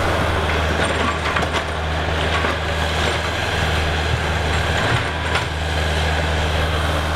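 Diesel engine of a tracked excavator running steadily under load, with a few sharp knocks and cracks scattered through.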